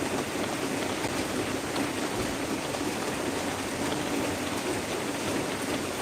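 Heavy rain falling steadily in a dense, even patter.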